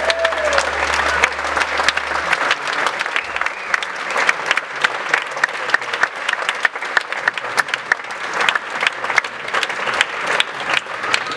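Concert audience applauding, dense and sustained clapping after a song ends. A low sustained hum from the stage cuts off about two seconds in.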